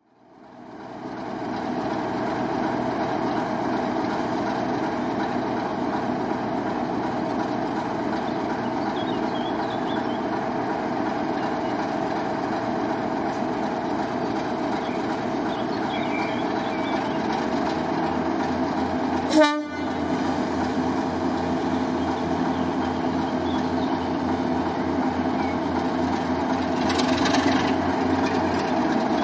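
Diesel locomotive engine running steadily, growing louder near the end, with a single sharp click about two-thirds of the way through.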